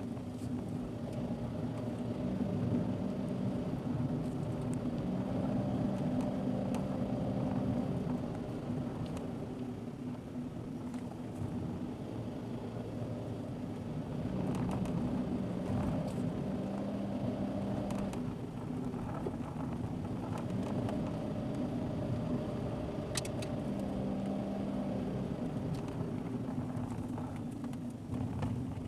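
A car being driven, heard from inside the cabin: a steady engine note and tyre noise that swell and ease a few times, with a few faint ticks.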